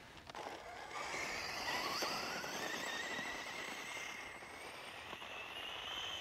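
Traxxas Rustler VXL RC car's brushless electric motor whining at full throttle, rising in pitch as the car speeds up, holding high, then climbing a little more before cutting off near the end.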